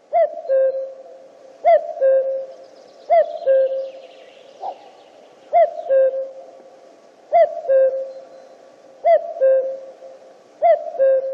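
Male common cuckoo calling its two-note "cu-coo", a higher note dropping to a lower, held one, repeated seven times at an even pace of about one call every one and a half to two seconds.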